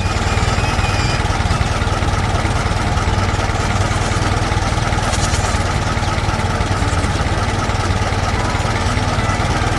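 A vehicle engine running steadily at idle, with a low, rapid, even pulse.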